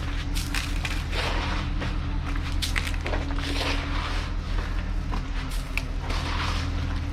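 Crunching and scraping in snow, irregular strokes about once a second, over a vehicle engine running steadily.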